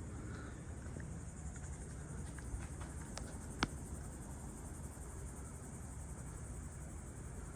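Insects chirring in a steady, high-pitched drone, with a few light clicks and one sharper click about three and a half seconds in.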